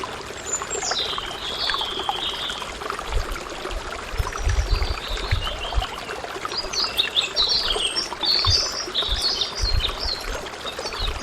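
Birds chirping over a steady trickle or pour of water, with a few brief low thumps.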